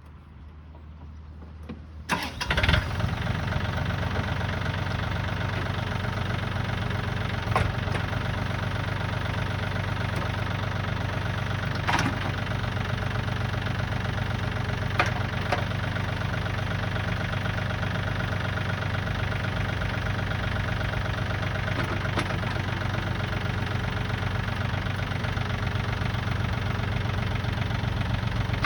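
Yanmar AF26 compact tractor's diesel engine starting: the starter cranks about two seconds in, the engine catches almost at once and settles into a steady idle, with a few sharp clicks over it.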